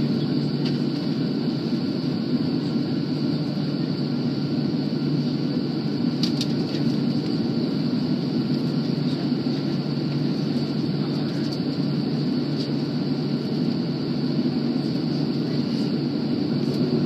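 Steady drone inside a jet airliner's cabin on the ground before takeoff: engine and air-conditioning hum with a constant low tone and a faint high hiss.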